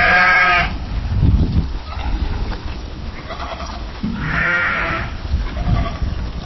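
Sheep bleating: a loud bleat right at the start and another about four seconds in, with fainter bleats in between, over a low rumble.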